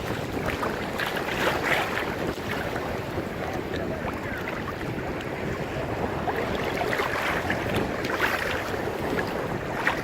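Ocean surf breaking in a continuous wash with a few louder surges, with wind buffeting the microphone.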